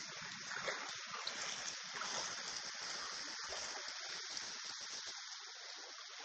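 Steady rushing hiss of flowing water, like floodwater running.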